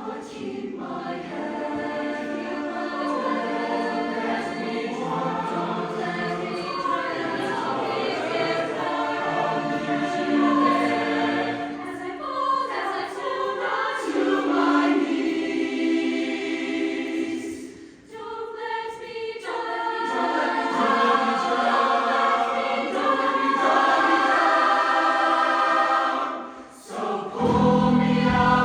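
Show choir singing a full, many-voiced passage, with a brief break a little past the middle and another near the end.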